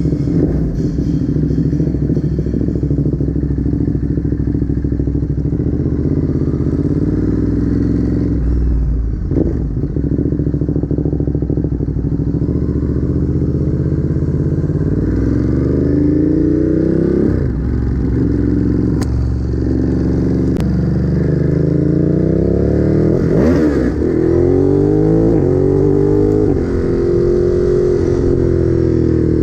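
Ducati Monster's V-twin engine running. Its pitch rises and falls several times, mostly in the second half, as when the bike accelerates and shifts gears.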